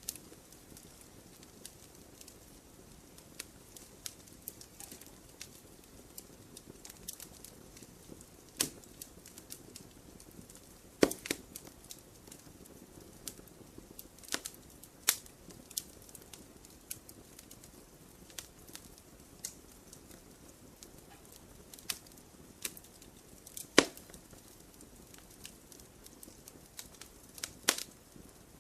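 Wood campfire crackling: irregular sharp pops and snaps over a soft steady hiss, with a couple of louder snaps standing out.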